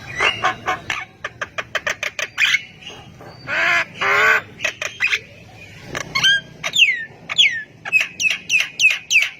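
Javan myna singing vigorously: a fast run of short clicking notes, then two harsh drawn-out squawks around the middle, then a string of quick falling whistles toward the end.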